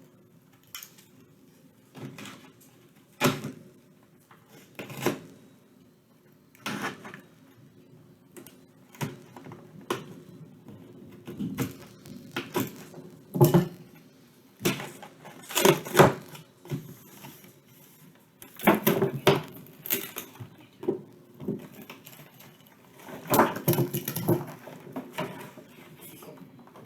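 A cardboard toy box being handled and opened: irregular scrapes, rustles and knocks of cardboard and packaging, coming in short bursts with pauses between.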